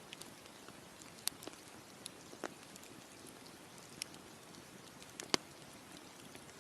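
Wood campfire crackling: scattered sharp pops and snaps at irregular intervals over a steady soft hiss, the loudest pop a little past five seconds in.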